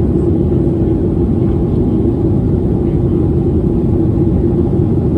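Steady roar of an airliner's cabin in flight: engine and airflow noise with a constant low hum running through it, during the climb after takeoff.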